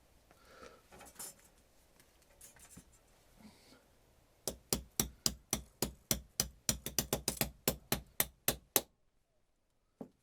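Light handling noises, then a quick run of about twenty sharp taps over some four seconds that stops abruptly, with one more knock near the end.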